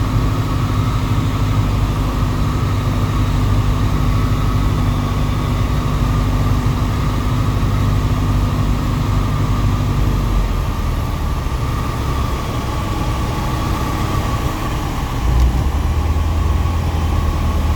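Embraer EMB-712 Tupi's single-engine piston engine and propeller running steadily. About ten seconds in the engine note changes and the deeper tones drop away, and a brief thump comes near fifteen seconds.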